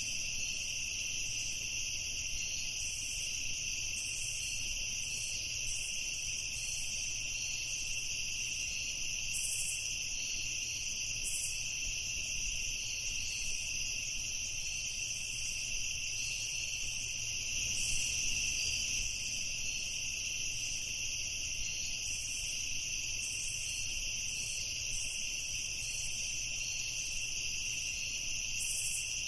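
Night chorus of crickets and other insects: a steady, continuous high trilling, with short, higher chirps scattered through it.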